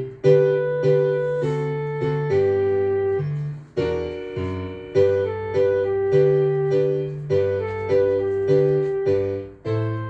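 Piano playing a light foxtrot accompaniment: bass notes and chords struck on a steady beat.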